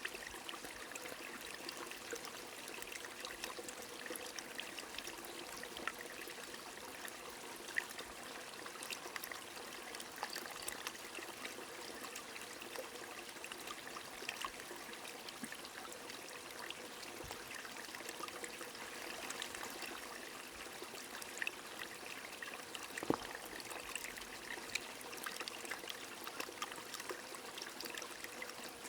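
Steady trickling of a stream mixed with light rain, with many small drop ticks scattered through a continuous water wash.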